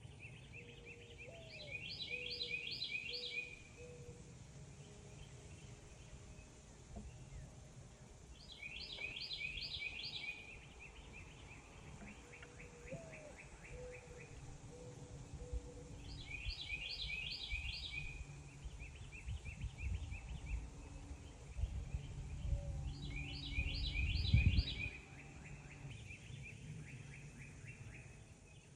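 A songbird repeats one short song of rapid notes four times, about every seven seconds. A low rumble runs underneath and is loudest near the end.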